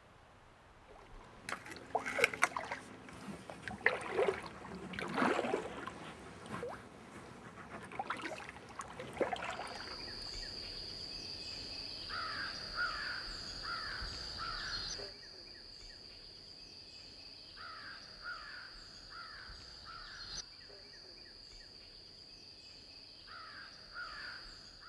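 Outdoor woodland sounds: a bird calling in runs of three or four harsh calls every few seconds, over a steady high-pitched whine that sets in about ten seconds in. Several sharp, loud noises come before it.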